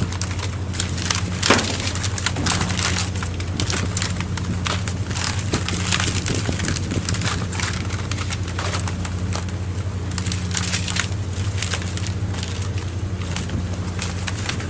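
A fishing boat's engine running with a steady low hum, under a dense run of irregular clicks and crackles.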